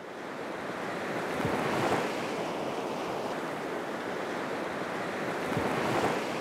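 Sea waves surging and breaking, fading in at the start and swelling twice, about two seconds and six seconds in.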